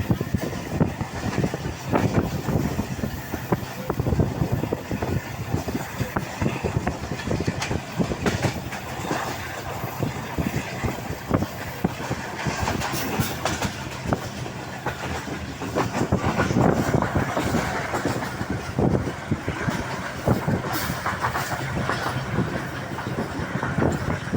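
Moving passenger train heard from inside a carriage: a steady running rumble with irregular clacks and rattles from the wheels on the rails.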